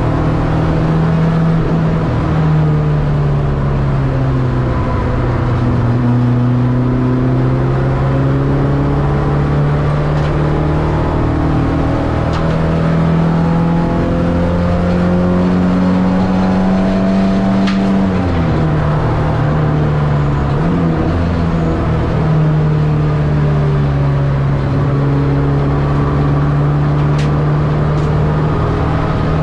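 Ford Escort XR3 race car's CVH four-cylinder engine, heard from inside the cabin as the car is driven hard round the circuit. Its pitch climbs slowly for long stretches, drops sharply about two-thirds of the way through, dips briefly a couple more times, and then climbs again.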